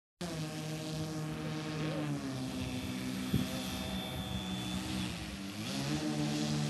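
Electric RC airplane's twin brushless outrunner motors spinning their propellers: a steady whine that drops in pitch about two seconds in and rises again near the end, with a brief click midway.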